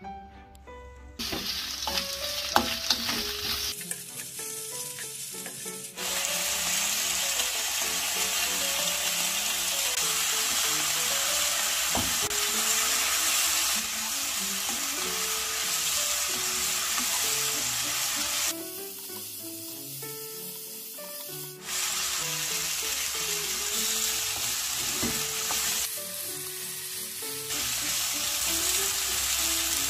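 Fish cake and sausage pieces sizzling as they are stir-fried in oil in a frying pan, with a steady frying hiss that drops away briefly twice.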